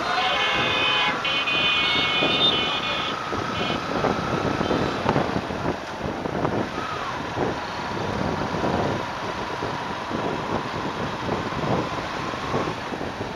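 Motorcycle on the move on a road, a steady engine tone under road and wind noise. A vehicle horn blows in blasts during the first three seconds.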